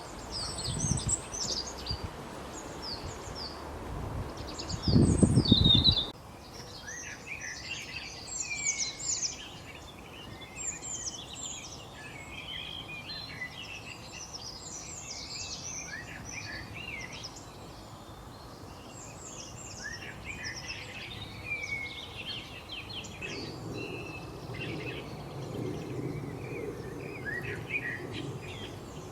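Eurasian bullfinch chirping and singing, a dense run of quick, short chirps that often overlap. A low rumbling noise runs under the first six seconds and is loudest about five seconds in.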